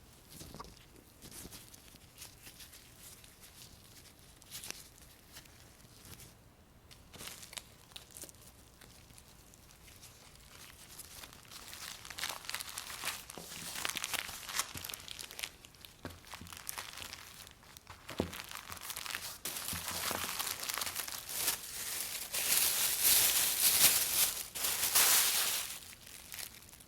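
Packaging crinkling and tearing as meat is portioned for storage. It is faint at first, then the handling grows busier and louder in the second half, loudest near the end.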